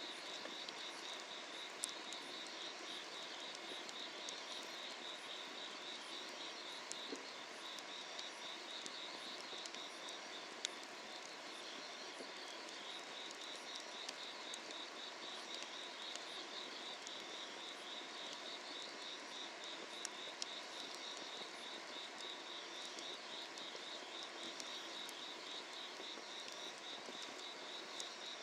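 Summer-night field insects trilling in fast, steady pulses, pausing briefly midway, over a wood fire under a cast-iron cauldron that gives a few sharp crackling pops.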